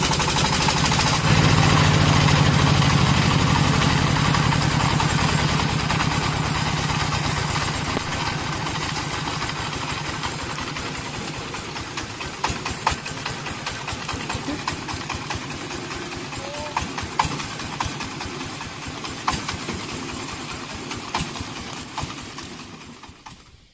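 Single-cylinder horizontal diesel engine of a công nông farm truck running hard with a fast chugging beat as it tries to climb a rain-slick, muddy slope. The sound is loudest early, fades gradually, and stops abruptly near the end.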